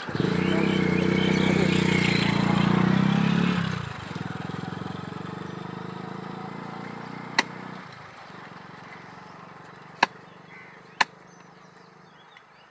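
Motorcycle engine running steadily and loudly, then fading away after about four seconds. Three sharp single knocks come later, two of them a second apart near the end.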